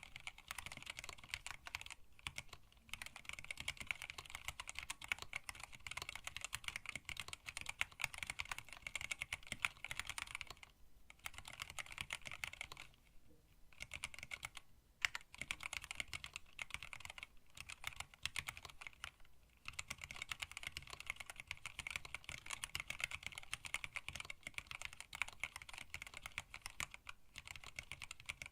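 Steady fast typing on a hand-wired split mechanical keyboard with Tealios linear switches, blank black PBT keycaps and a stacked acrylic case, with a few short pauses between bursts of keystrokes.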